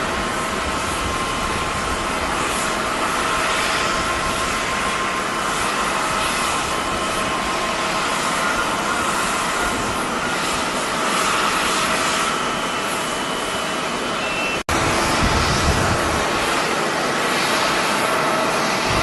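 Jet airliner engines running with a steady roar and a high whine. The sound cuts out for a split second about three-quarters of the way through, then comes back.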